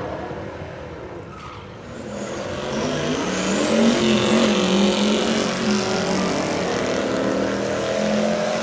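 Drag-race car engine running at high revs, getting much louder about two seconds in and staying loud, its pitch wavering.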